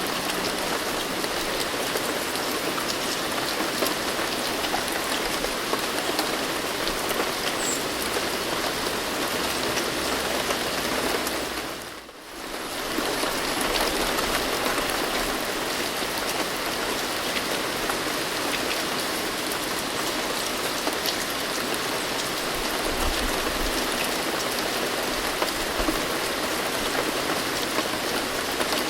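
Steady rain falling, a dense patter of drops on a surface. About twelve seconds in it briefly fades down and comes back up to the same level.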